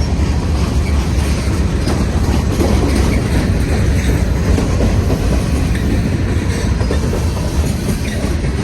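Freight train cars rolling past at track side: a steady rumble with the clickety-clack of wheels over rail joints.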